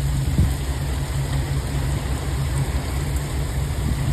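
Heavy rain falling, with a steady low rumble underneath.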